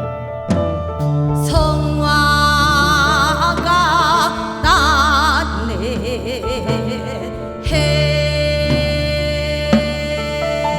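Korean traditional (gugak) ensemble music. A melody line with wide, wavering vibrato is held over a sustained bass, and a few sharp strikes sound near the start and again about eight seconds in.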